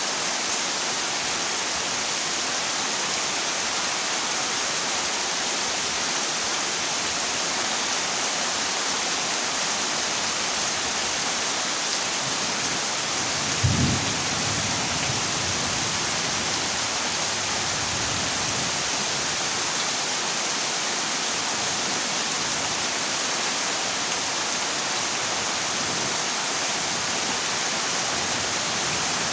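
Heavy rain falling steadily on a corrugated zinc roof. A thunderclap strikes about halfway through and rumbles away over several seconds, and a fainter rumble of thunder follows near the end.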